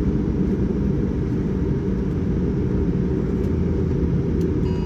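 Steady low rumble inside the cabin of a Boeing 787-9 with its engines running, an even noise without distinct tones.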